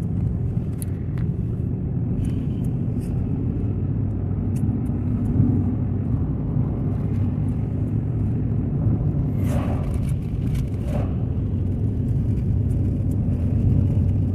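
Front-wheel-drive car driving on a snowy road: a steady low engine and road rumble, with two brief noises about ten seconds in.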